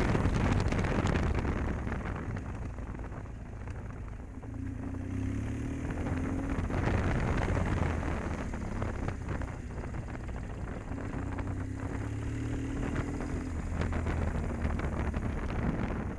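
Motorcycle engine running while riding, with wind noise on the microphone; the engine pitch rises twice as the bike speeds up.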